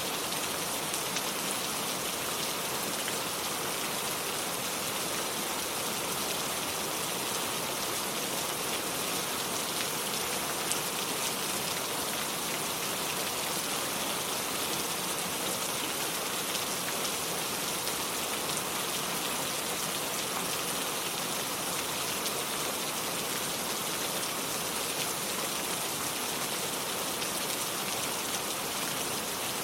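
Steady rain falling on a wooden porch and the lake's surface: a continuous, even hiss of dense drop patter.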